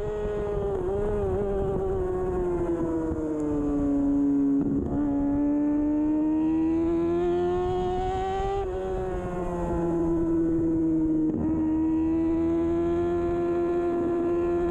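2013 Kawasaki Ninja 636's inline-four engine running hard at race pace. The engine note sinks as the bike slows, climbs again as it pulls away, drops sharply about nine seconds in at an upshift, eases off, then rises steadily.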